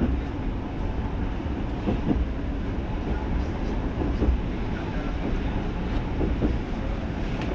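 Running sound heard inside a Joban Line local train car: a steady low rumble of wheels on rail with a few faint knocks.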